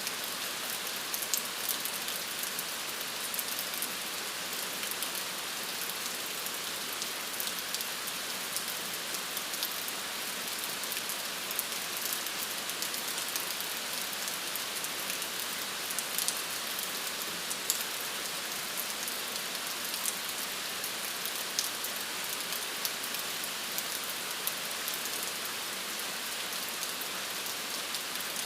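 Steady rain falling, a constant hiss with many small drop patters and occasional sharper drip clicks.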